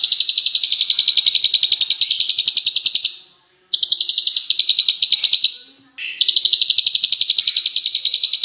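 A songbird's rapid high trill, a fast run of evenly repeated sharp notes, about a dozen a second, delivered in three long phrases with brief pauses about a third of the way in and two-thirds of the way in. This is the piercing 'tembakan' type of song used as masteran for training cage birds.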